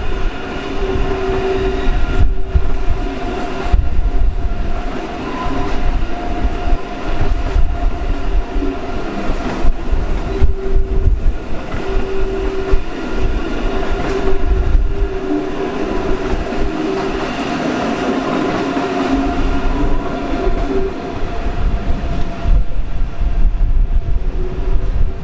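A train passing: a loud, heavy rumble with steady whining tones that come and go, and a few short knocks.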